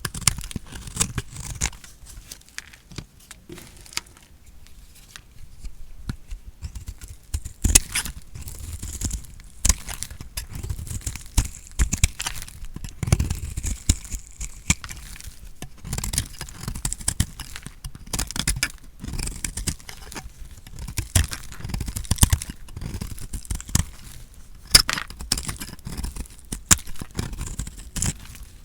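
Knife cutting through a bar of dry soap: a dense run of irregular crackling crunches as the soap cracks and crumbles under the blade.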